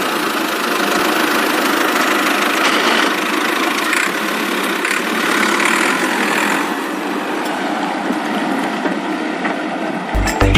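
A small engine running steadily. Music with a heavy beat cuts in near the end.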